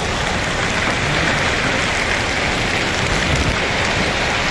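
Heavy rain mixed with hail pelting a car, a dense steady hiss and patter.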